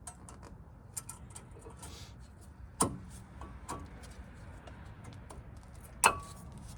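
Light metallic clicks and clinks of brake pads and their hardware being handled and seated in a disc brake caliper bracket, with two sharper clinks, about three seconds in and near the end, the last one ringing briefly.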